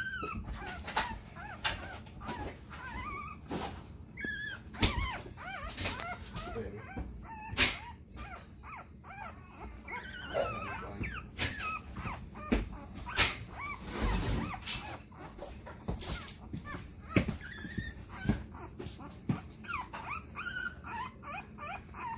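Week-old American Bully puppies whimpering and squeaking in many short, high, wavering cries. Several sharp knocks or thumps are mixed in.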